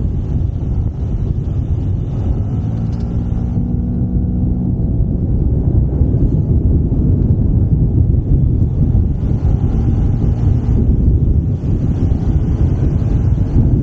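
Wind buffeting the action-camera microphone while riding a Yamaha SMAX 155 scooter, a steady loud rumble. The scooter's single-cylinder engine tone shows faintly through it about three to five seconds in.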